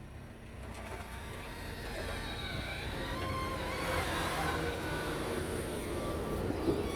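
Fiat Grande Punto 1.4-litre petrol four-cylinder engine (code 350A1000) idling steadily while running on test.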